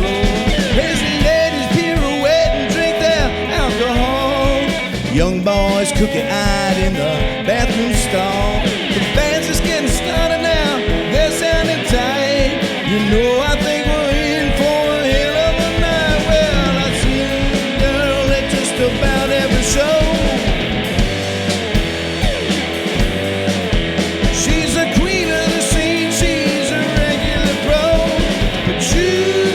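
Live rock band playing an instrumental break: a bending lead guitar line over drums and bass.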